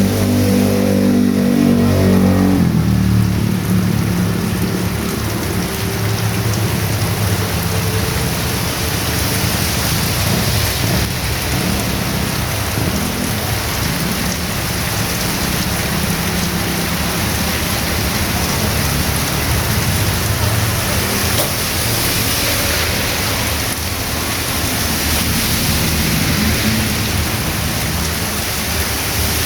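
Heavy rain pouring steadily, a dense even hiss. A low engine hum sits under it at the start and stops about two and a half seconds in, and a low, uneven rumble continues beneath the rain after that.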